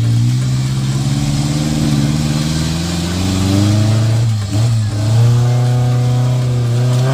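Small 4x4's engine revving hard under load in deep mud, its pitch climbing over the first few seconds, dropping briefly about four and a half seconds in, then held high again.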